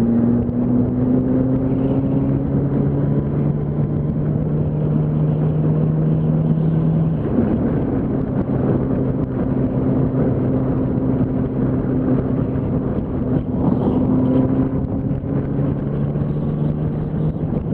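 Yamaha R1's inline-four engine running at steady road revs under a haze of wind noise, heard from the riding motorcycle. About seven seconds in the engine note drops, then holds steady again.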